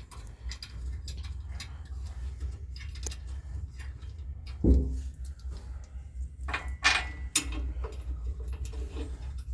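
Scattered metallic clicks and clinks from tow bar bolts and mounting hardware being handled, with one heavy metal knock about halfway through. A steady low hum runs underneath.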